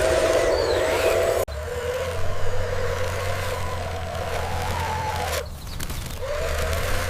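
Small electric gear motors of a homemade remote-controlled model vehicle whining, the pitch rising and falling as they speed up and slow down. The sound breaks off abruptly about a second and a half in and drops out briefly near the end.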